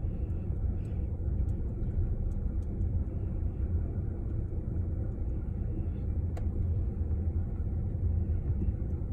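Long freight train of tank cars rolling steadily past a crossing: a continuous low rumble, with faint clicks and one sharper click about six seconds in.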